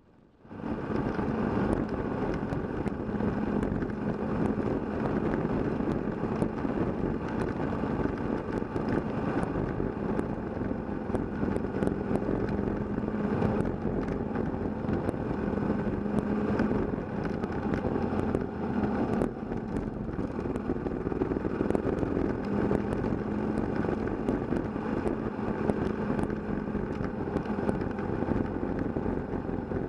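Kawasaki KLR650 single-cylinder engine running steadily while riding a gravel road, heard from a camera mounted on the bike, with scattered sharp ticks from the rough surface. The sound starts abruptly about half a second in.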